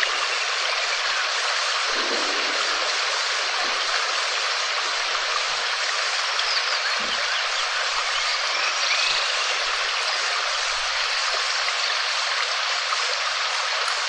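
Steady rain falling, an even, continuous hiss with no let-up.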